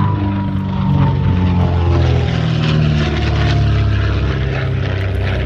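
Twin de Havilland Gipsy Six R piston engines of a DH88 Comet running as the aircraft flies past, the propeller drone falling slowly in pitch.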